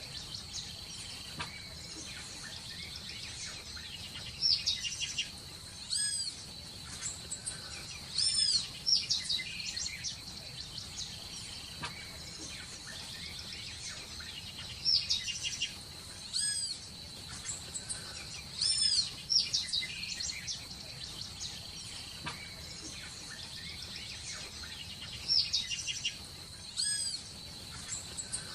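Birds chirping in short bursts of quick rising-and-falling whistled notes, a burst every few seconds, over a steady high-pitched buzz.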